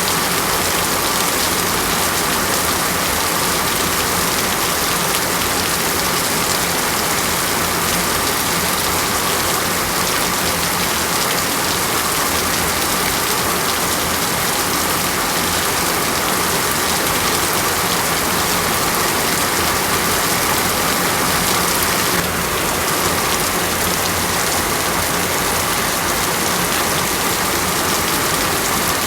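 Steady rain falling as an even, continuous hiss, with a faint steady hum underneath.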